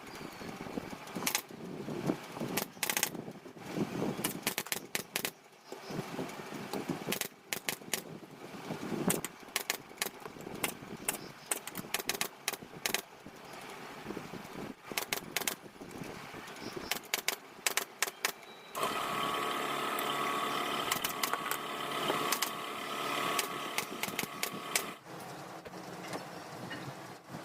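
Repeated sharp clicks and knocks of hand work, then a steady engine-like drone that comes in suddenly about 19 seconds in and fades after about six seconds.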